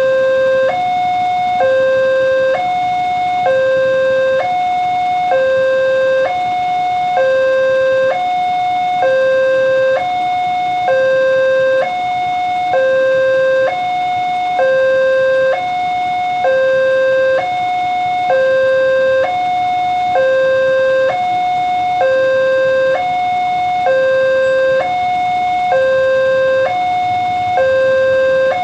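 Electronic two-tone warning alarm of an Indonesian railway level crossing, sounding continuously. It switches back and forth between a lower and a higher tone, each held for under a second, warning that a train is approaching.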